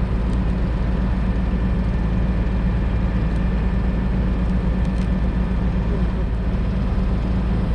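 Heavy truck engine running steadily at constant speed, a deep even drone with no change in pitch.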